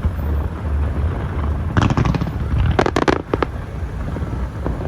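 Fireworks exploding: a cluster of crackling bangs about two seconds in and another about three seconds in, over a steady low rumble.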